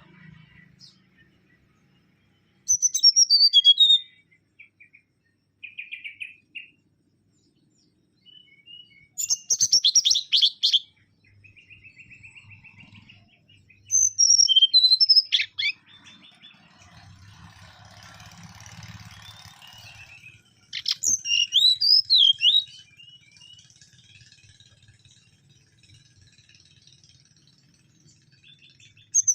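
Mangrove whistler singing: four loud phrases of rapid high notes, several falling in pitch, spaced a few seconds apart, with softer short notes and a faint trill between them.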